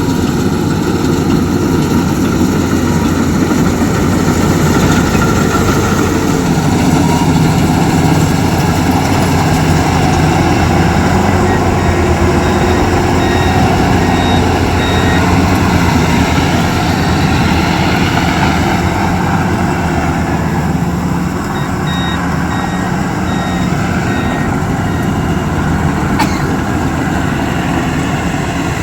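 Heavy farm machine's engine running steadily and loudly, with two runs of short, evenly spaced high electronic beeps, about twelve and twenty-two seconds in.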